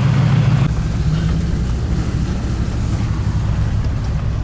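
Land Rover Discovery 2's Td5 five-cylinder turbodiesel engine running, heard from inside the cabin as a steady low drone; a little under a second in, the engine note eases off and drops lower.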